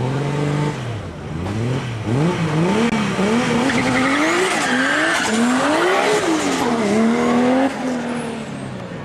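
Turbocharged BMW E30's engine revved hard again and again on the start line, its pitch climbing and dropping about twice a second. Near the end it drops to a steadier, quieter note.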